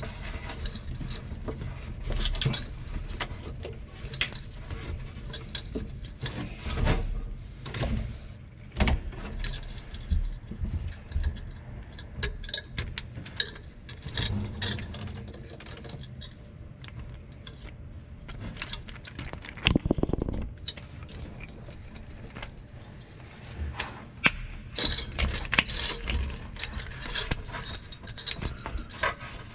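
Small metallic clicks, scrapes and light jingling of steel safety wire and safety wire pliers as the wire is twisted into a pigtail at an aircraft engine's oil filter.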